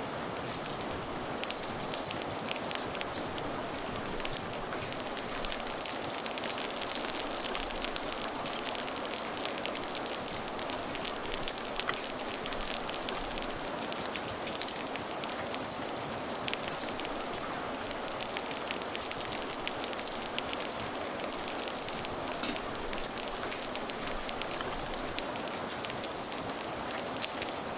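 Steady rain falling, with the scattered pops and crackles of a wood fire mixed in.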